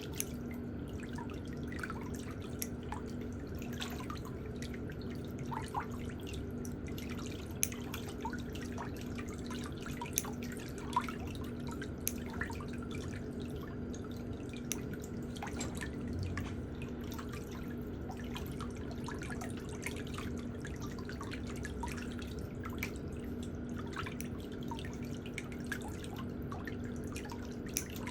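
Many small, irregular clicks and ticks over a steady low hum.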